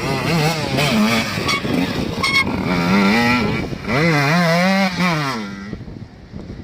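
Enduro motorcycle engine revving hard, its pitch rising and falling over and over as the rider works the throttle, with a few sharp clicks about two seconds in; the engine note drops away about a second before the end.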